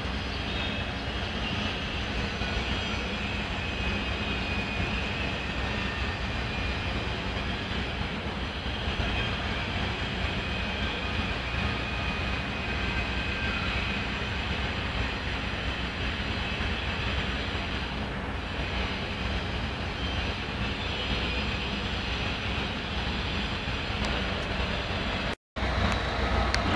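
Steady low rumble of vehicle noise, cut by a brief dropout to silence near the end.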